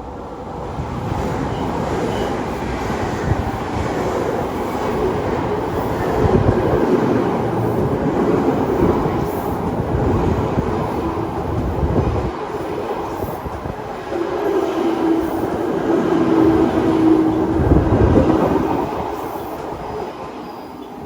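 An electric train running past on the tracks: wheels rumbling and clattering on the rails, swelling and fading over about twenty seconds, with a steady whine for a few seconds in the second half.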